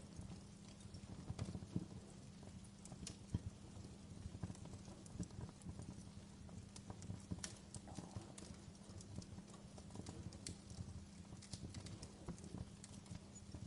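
Wood fire crackling in a fireplace: irregular small pops and snaps over a low, steady rumble of the burning fire.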